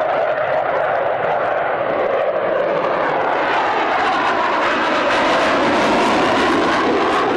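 Panavia Tornado's twin RB199 turbofan engines: a continuous jet noise that grows louder and brighter toward the end as the jet comes in on a fast run.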